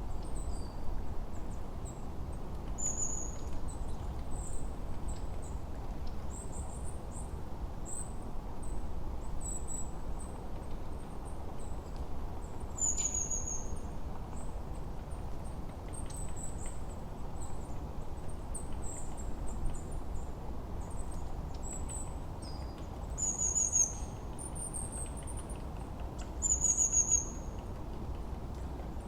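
Songbirds calling: short high-pitched chirps and brief downward-sliding notes every second or so, over a steady low rush of wind.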